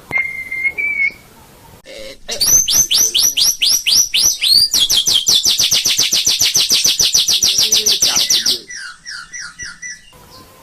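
White-rumped shama (murai batu) singing: a short held whistle, then a run of fast down-slurred notes that speeds into a loud rapid trill lasting about four seconds, and a few softer notes near the end.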